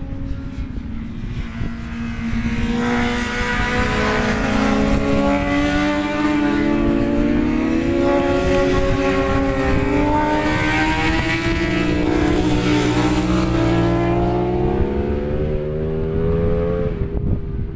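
Racing motorcycles passing on the circuit at high revs, engine pitch climbing and dropping through gear changes, swelling in about two seconds in and fading near the end. Wind buffets the microphone throughout.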